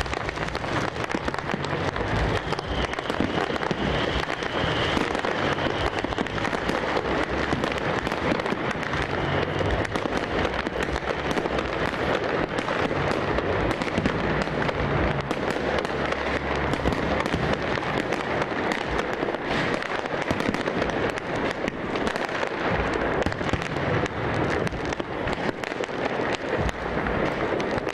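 Large fireworks display: a dense, continuous crackle of many bursts and bangs overlapping without a pause.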